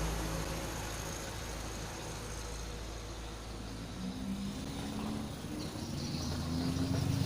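An engine hum that fades away, then builds up again with a rising pitch from about four seconds in.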